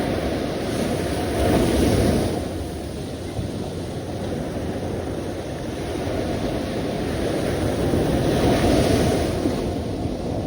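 Sea waves washing on the shore in a steady rush, surging louder about a second in and again near the end.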